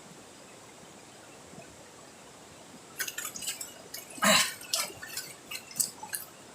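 Water splashing and dripping: a quick run of short, sharp splashes in the second half, loudest about four seconds in, over a faint steady hiss.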